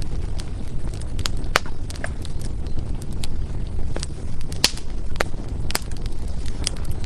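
Firewood burning in a fireplace: irregular sharp crackles and pops, roughly one or two a second, over a steady low rumble.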